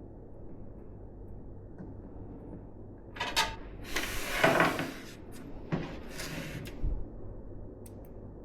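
PC parts being handled, scraping and rustling three times, the longest and loudest about halfway through, then a dull knock near the end.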